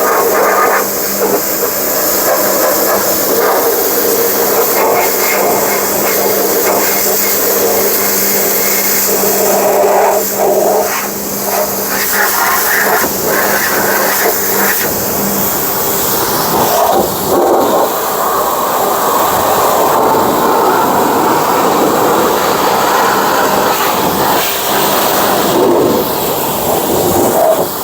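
Pressure washer jet spraying water onto a car: a loud continuous hiss that changes in texture as the spray moves over different surfaces, with a steady hum that drops out about halfway through.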